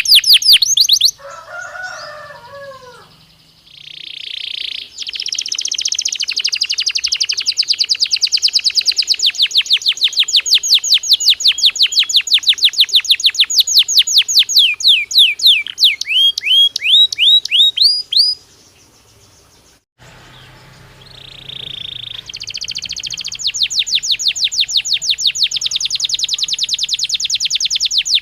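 Belgian canary singing: long, rapid trills of quickly repeated high notes, some rising at the end of a phrase. There are a few lower falling notes near the start, and a short pause before the next trill.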